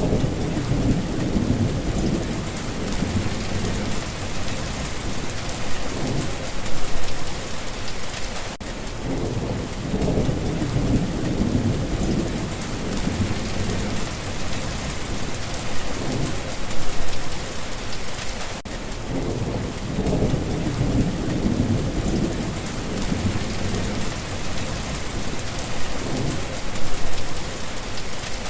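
Steady rain falling, with low rumbles of thunder swelling and fading every few seconds.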